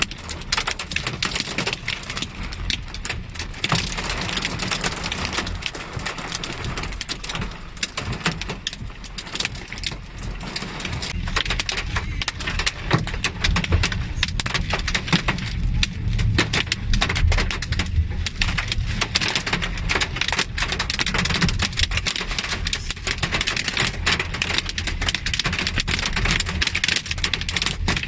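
Heavy rain in a storm: a dense patter of drops over a low rumble, growing heavier from about ten seconds in.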